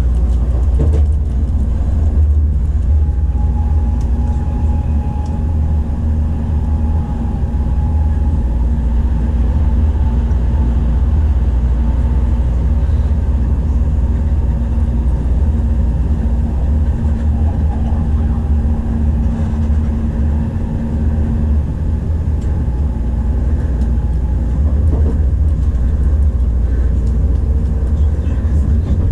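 Tokaido Shinkansen train cabin running noise: a steady, deep rumble with a faint hum over it that fades out about two-thirds of the way through.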